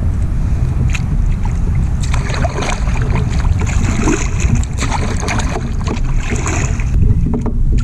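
Wind buffeting the microphone on a fishing kayak, a loud uneven rumble, with scattered knocks and clatter from gear being handled and a hissing rush through the middle.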